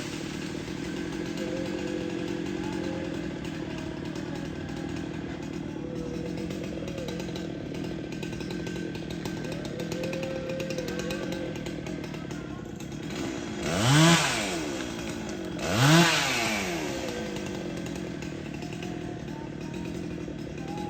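Chainsaw idling steadily, revved twice in short blips about two seconds apart a little past the middle, its pitch sweeping up and back down each time.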